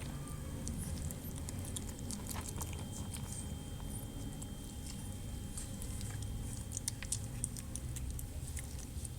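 Maltese puppies chewing and crunching dry kibble: irregular, rapid small crunches and clicks, over a steady low rumble.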